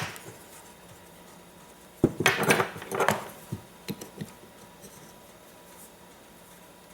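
Small carburetor parts being handled on a workbench: a sharp click about two seconds in, two short clattering rustles, then a few light taps.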